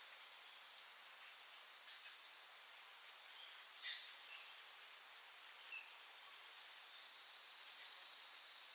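Insects chirring in a very high, pulsing trill that comes in repeated bouts of a second or two with short pauses between, over a steady high-pitched drone.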